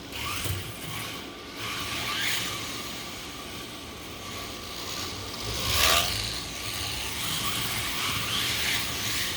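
Winged sprint slot cars lapping the track, their small electric motors whining with a steady high tone. Several louder swells come as cars pass close by, the loudest about six seconds in.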